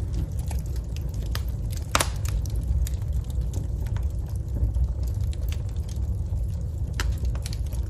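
Wood fire in a fireplace crackling over a steady low rumble. Scattered sharp pops, with two louder snaps about two seconds in and near the end.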